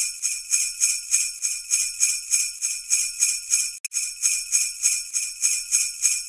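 Jingle bells (sleigh bells) shaken in a steady, even rhythm, about three shakes a second, cutting out for an instant once partway through.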